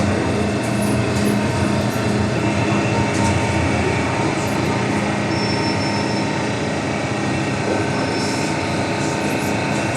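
MTR M-Train electric multiple unit running between stations, heard from inside: a steady rumble of wheels on rail with an even motor hum running through it.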